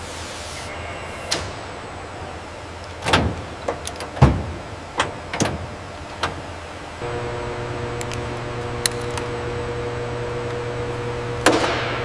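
Factory machinery and tool noise: a run of sharp metallic knocks and clanks over a low hum, then about seven seconds in a machine starts up with a steady hum and whine, and one louder clank comes near the end.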